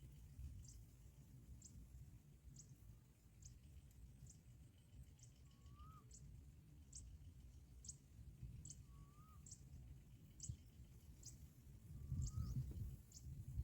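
Faint, high-pitched ticking calls of a small bird, repeated about once a second, with three short, lower, curling notes in between. A low rumble underneath swells near the end.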